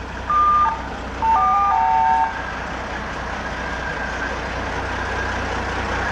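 Diesel locomotive horn sounded twice, a short toot and then a longer chord of steady notes, over the steady drone of the Mk45 narrow-gauge diesel locomotive's idling engine.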